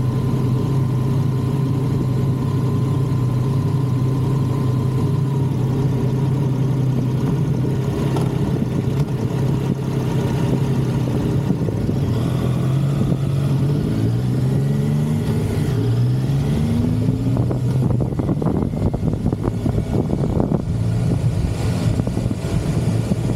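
Motorcycle engine heard from the bike while riding, holding a steady note, then rising and falling in pitch through several gear changes about halfway through.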